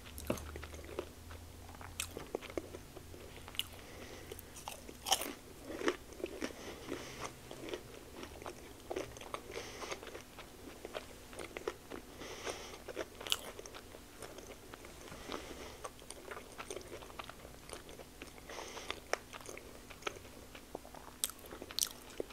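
A person biting and chewing a cheesy chicken taquito dipped in queso cheese, with irregular short, sharp mouth clicks and crunches throughout.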